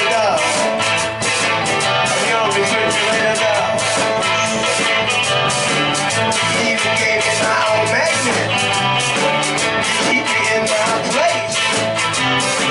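Live rock band playing, guitar to the fore over a steady drum beat.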